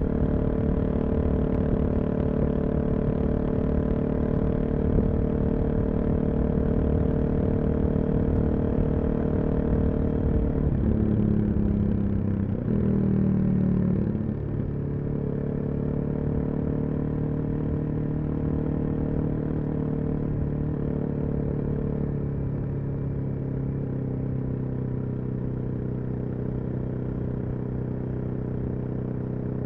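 Suzuki DR-Z400SM's single-cylinder engine through a full Yoshimura exhaust, running at a steady cruise. About ten seconds in, its pitch wavers and shifts over a few seconds, then it settles on a lower, slightly quieter steady note.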